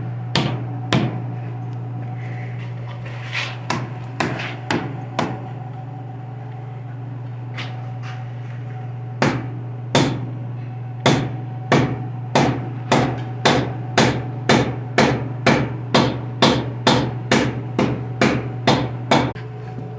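Hammer blows on a stuck cylinder head of an antique John Deere tractor engine, knocking it loose. A few scattered strikes come first, then a steady run of about two blows a second from about nine seconds in, over a steady low hum.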